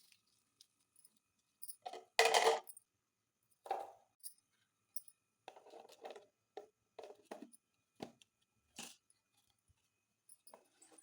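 Intermittent handling noises of vegetables, bags and containers being sorted and put away: a half-second rustle about two seconds in, the loudest, then a string of short rustles, knocks and clinks.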